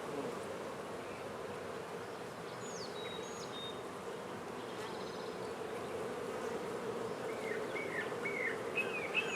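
Honey bees buzzing in a steady hum around an opened hive while its frames are being lifted out for inspection.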